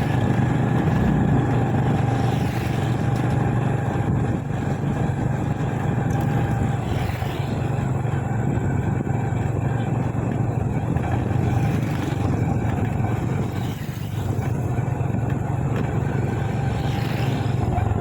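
Motorcycle engine running with a steady low hum as the bike rides along.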